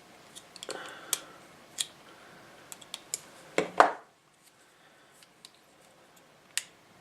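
Small plastic and metal parts of a handheld radio being handled and fitted together: scattered light clicks and ticks, a louder double clack about three and a half seconds in, and a single click near the end.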